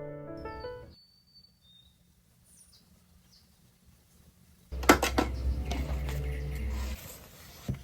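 Piano music fading out, then faint bird chirps in a quiet room. About five seconds in, kitchenware clinks and clatters over a low hum for a couple of seconds.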